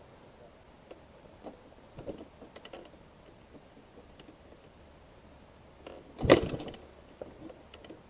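Scattered light clicks and knocks with no engine running, and one loud sharp knock about six seconds in that rings briefly.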